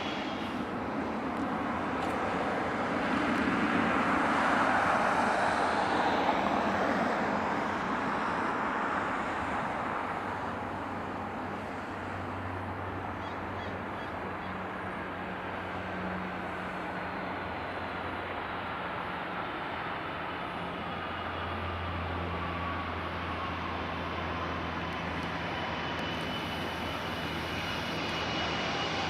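Boeing 747-400 jet engines on a landing approach. A loud rush builds to its peak about five seconds in, then settles into a steadier engine sound with a thin whine that slowly falls in pitch.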